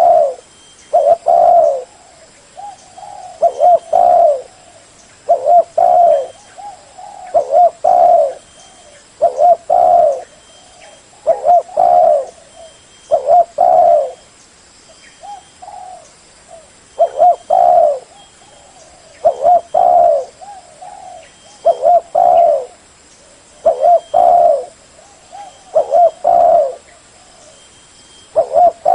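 Spotted dove (cu gáy) cooing: a phrase of a few short coos followed by a longer one, repeated about every two seconds.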